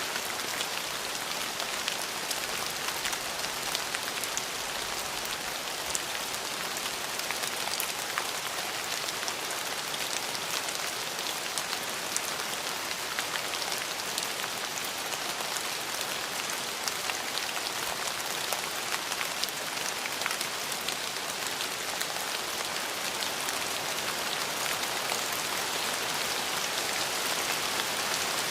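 Steady rain falling on a surface: an even hiss full of countless small drop impacts, with no thunder.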